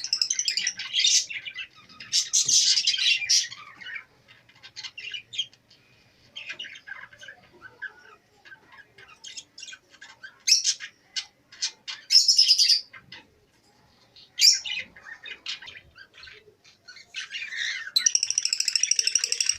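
Many small cage birds chirping and calling together in bursts with short lulls, and a fast run of repeated chirps near the end.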